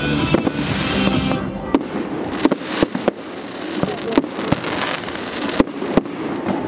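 Fireworks going off: sharp bangs at irregular intervals over crackling, with band music that drops away about a second and a half in.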